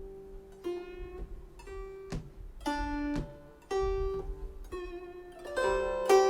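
Steel-string guzheng playing a slow Chaozhou folk melody: single plucked notes about two a second, each left ringing, growing louder near the end.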